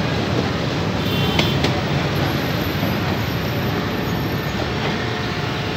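Passenger coaches of a train rolling past over the rails: a steady rumble with a few sharp wheel clacks at rail joints about a second and a half in.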